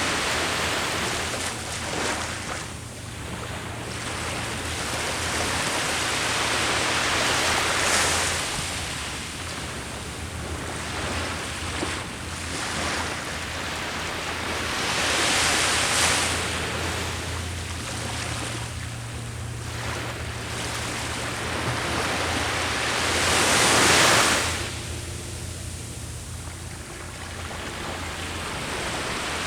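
Ocean surf on the shore, the waves swelling and breaking about every eight seconds, the loudest near the end, over a steady low rumble.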